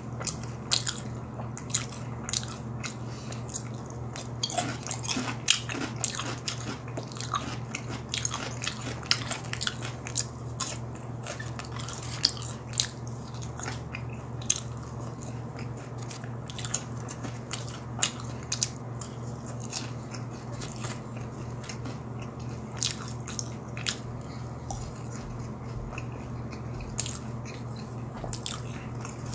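Close-miked eating: a person biting and chewing crisp fried food, seasoned fried potato sticks and fried chicken, with many sharp crunches all through. A steady low hum runs underneath.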